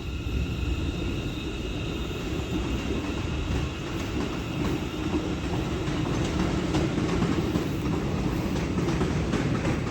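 A train running on the rails with a steady low rumble; short clicks from the wheels come more often in the second half.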